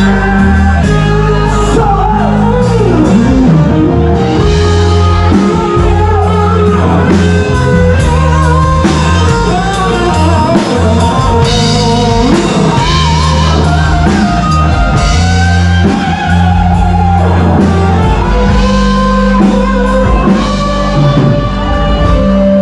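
Live rock band playing a song: guitar and drum kit with a singing voice, loud and continuous.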